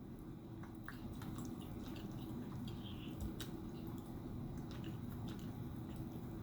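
Quiet wet chewing and mouth noises of someone eating, with scattered small clicks and smacks.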